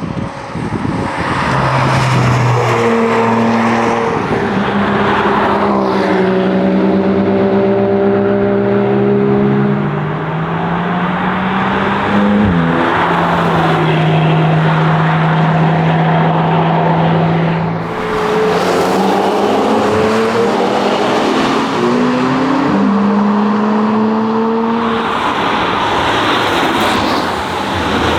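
2021 Porsche Cayman GT4's 4.0-litre flat-six engine driven hard, its pitch rising and falling with throttle and gear changes. About twelve seconds in a climbing rev drops sharply, then the engine holds a steady note for several seconds before easing off and climbing again.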